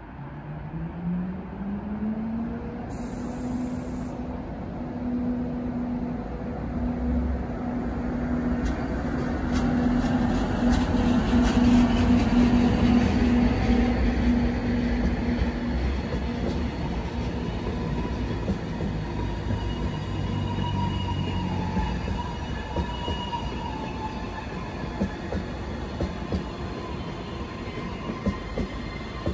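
Matterhorn Gotthard Bahn HGe 4/4 electric locomotive pulling the Glacier Express away. Its motor whine rises in pitch over the first couple of seconds and then holds steady. Wheels click over the rails and squeal faintly as the coaches roll past.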